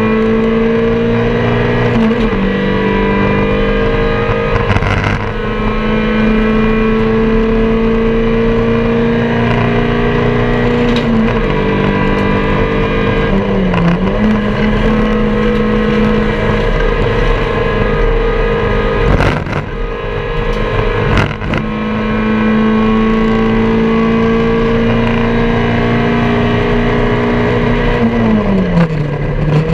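MG Metro race car's four-cylinder engine, heard inside its stripped cabin, held at high revs under racing load, with short drops in revs several times. A few sharp knocks come about two-thirds of the way through.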